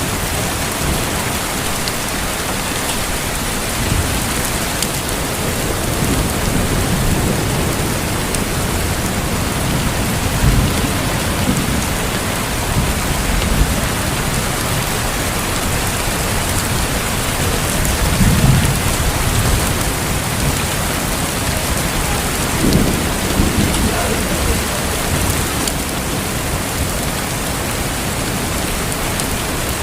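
Heavy rain falling steadily, with several low rumbling swells under it, the strongest about two-thirds of the way through.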